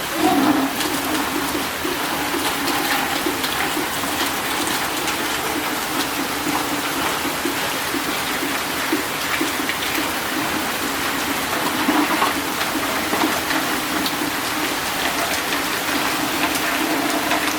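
Steady rain falling, with many close drops and splashes.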